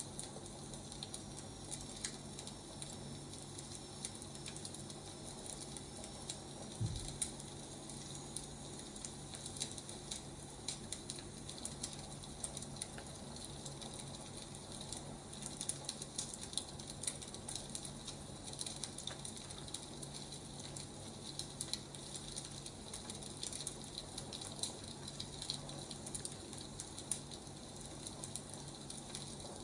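Wood fire crackling: a steady scatter of small irregular pops and snaps over a faint hiss, with a low steady hum underneath.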